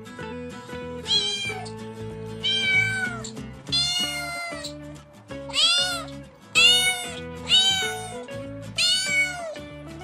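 A cat meowing again and again, about seven high mews that each rise and then fall in pitch, over soft background music.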